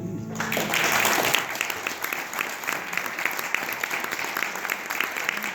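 Small audience applauding as the last acoustic guitar chord dies away. The clapping swells quickly in the first second, then settles into steady applause.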